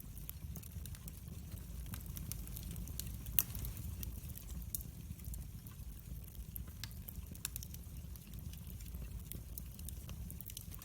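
Wood fire burning in a fireplace: a low steady rumble of flames with frequent small crackles and one louder pop a few seconds in.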